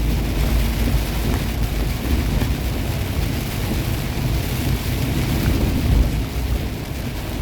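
Steady in-cab noise of a semi truck driving in the rain: a low engine and road rumble under a constant hiss of rain and wet road.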